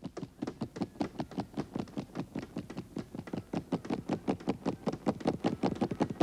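Rapid, slightly uneven run of sharp taps and knocks, about eight a second, with no let-up.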